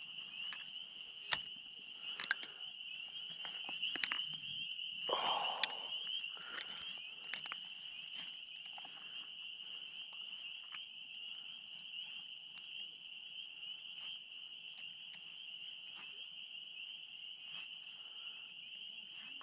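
A steady high-pitched insect trill, with scattered clicks and a short rush of noise about five seconds in.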